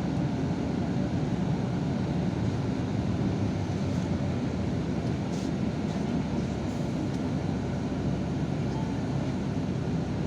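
Yutong ZK6128HG city bus under way, heard from inside the cabin: a steady low rumble of engine and road noise, with a few faint ticks and rattles.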